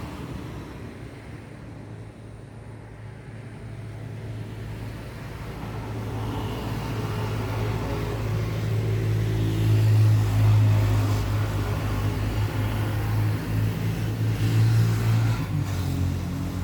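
A motor vehicle's engine running close by with a low, steady hum, growing louder from about a third of the way in and staying loud to the end.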